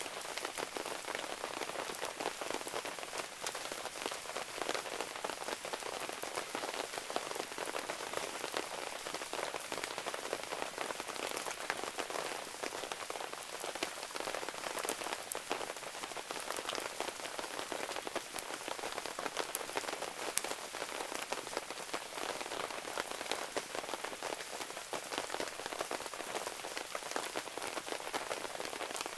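Steady rain pattering, a dense hiss of falling drops with scattered sharp ticks.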